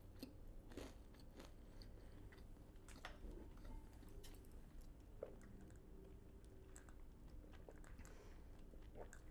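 Faint chewing and crunching of KFC fried chicken with a thick, hard batter: scattered small crisp crunches and mouth clicks.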